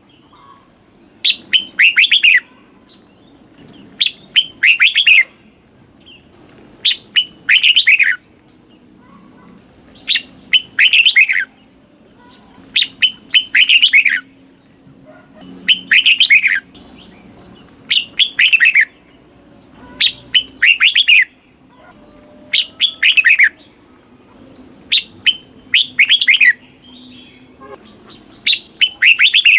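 Red-whiskered bulbul singing: loud, quick phrases of short falling whistled notes, repeated over and over about every two and a half seconds.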